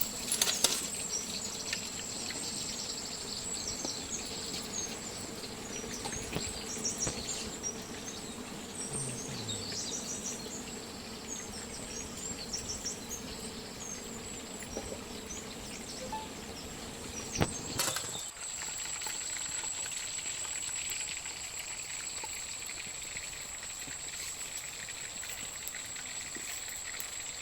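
Steady high-pitched insect drone, with scattered bird chirps in the first half and a single sharp click about two-thirds of the way through.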